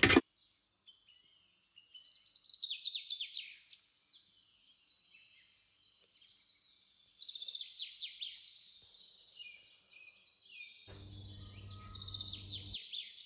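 A songbird singing in three spells of quick, falling, trilling phrases. A short click at the very start, and a steady low electrical hum for about two seconds near the end.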